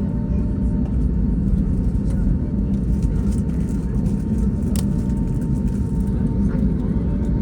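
Steady low cabin rumble of an Airbus A321neo taxiing, with a thin steady whine over it and a single sharp click about five seconds in.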